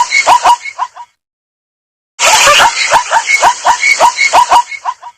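Zebra's barking call, a rapid run of short yelping notes, about four a second. It breaks off about a second in and the same run comes again after a second's silence.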